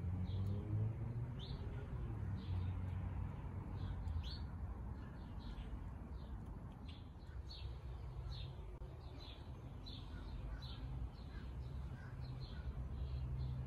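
Small birds chirping outdoors: short high notes repeat about twice a second, over a steady low rumble.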